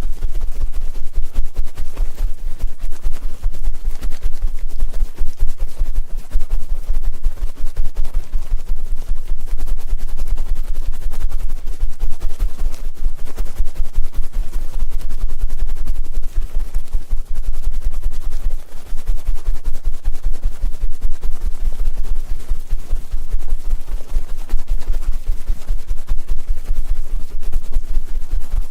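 Close-miked ASMR crackling and scratching: a dense, unbroken run of rapid clicks over a heavy low rumble.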